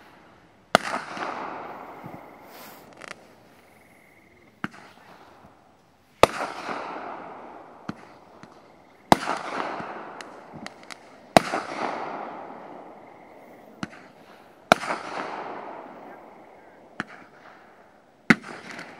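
Fireworks going off: about seven sharp bangs a few seconds apart, each trailing off over a second or two, with smaller pops in between.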